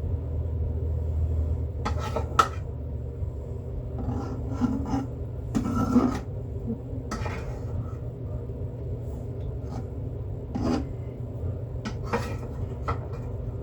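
Brush scrubbing cooling beeswax onto a beehive frame: a series of short rasping scrapes and a few knocks, over a steady low hum.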